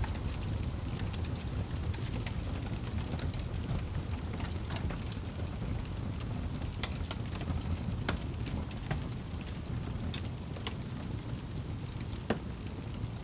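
Steady rain with the scattered sharp crackles and pops of a wood fire; the loudest pop comes near the end.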